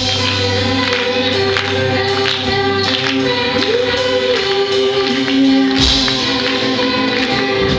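Live pop-rock band playing with singing and a steady drum beat, recorded on a camera microphone that copes poorly with the bass. The deep bass drops out at the start and comes back about six seconds in.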